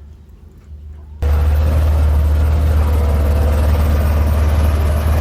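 Small electric pressure washer starting suddenly about a second in and running steadily, its motor humming low under the hiss of the water spray.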